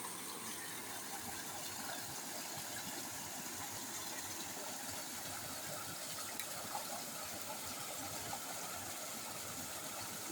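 Steady rushing of a flowing river, an even wash of noise that holds level throughout.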